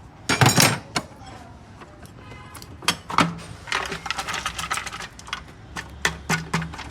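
Irregular metallic clicks and taps of hand tools working on engine parts, with a louder clatter about half a second in and quicker tapping in the second half.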